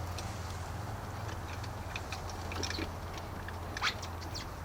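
Scattered light clicks and taps of hand tools on metal while working in a truck's engine bay, over a steady low hum.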